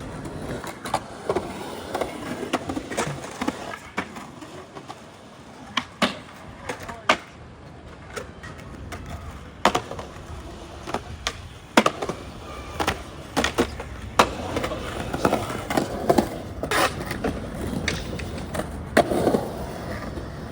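Irregular sharp clacks and knocks, well over a dozen, spread unevenly over a steady low rolling rumble.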